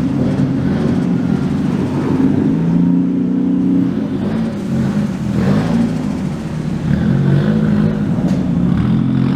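Loud car engine running, its pitch rising and falling as the engine speed changes.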